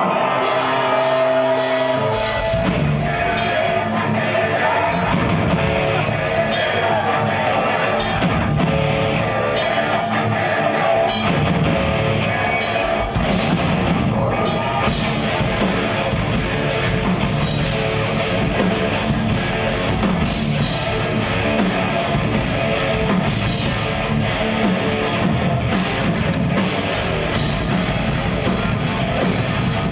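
Progressive death metal band playing live: distorted electric guitars, bass and drum kit. Held guitar notes ring alone at first, and the drums and bass come in about two seconds in, driving on steadily from there.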